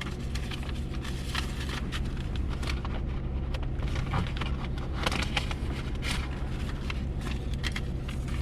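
Papers rustling and crinkling as they are shuffled through by hand, over the steady low hum of a truck engine idling.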